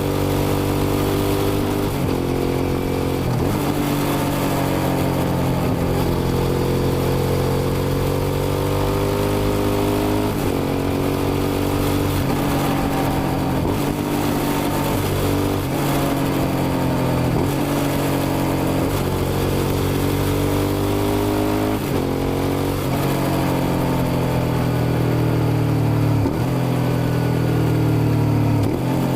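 Suzuki SV650's 90-degree V-twin engine running hard under way, its note climbing and dropping back to a new pitch every couple of seconds.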